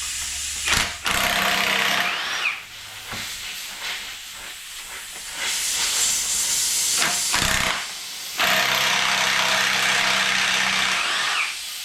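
Compressed air hissing in three long bursts, each a few seconds long, with a short knock between the second and third.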